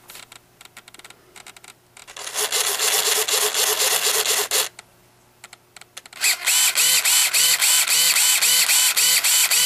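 Savox 236 RC servo's motor and gear train whirring as it is driven: faint clicks, one sweep of about two and a half seconds, a pause, then quick back-and-forth jerks about four a second through the last few seconds. The servo is running again after its broken motor tab was repaired.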